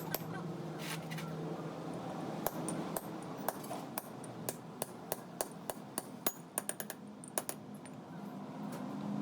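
Metal tools and gear parts clinking and tapping against each other in an irregular run of light strikes, some with a brief metallic ring, over a faint steady hum.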